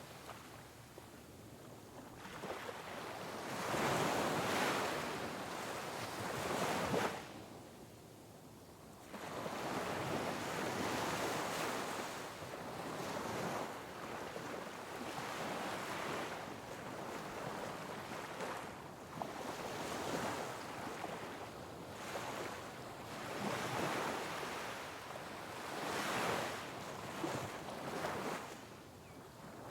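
Sea waves breaking on rocks, each one a rushing surge that swells and ebbs every few seconds, with a brief lull about a third of the way through.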